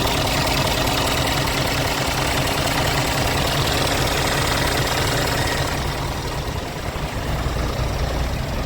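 Scania P410 truck's 13-litre inline-six diesel engine idling steadily; from about six seconds in the higher hiss fades and a deeper low rumble comes forward.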